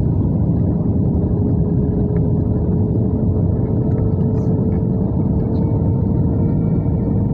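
Steady cabin noise of an Airbus A320 in flight: a low, even rush of engine and airflow noise, with a faint humming tone that rises slightly in pitch.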